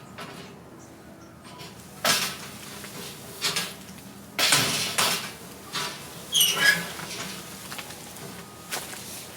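Rustling and knocking of things being handled, in several short separate bursts, with a brief squeak falling in pitch about six and a half seconds in.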